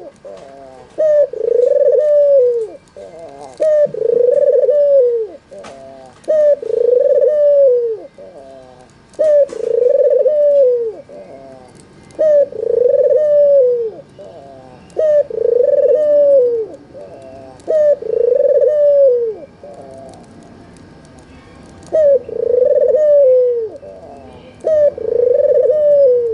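An albino ringneck dove (white, red-eyed 'puter') cooing: a short note and then a longer rolling coo, repeated about every two seconds. There is a longer pause about three quarters of the way through.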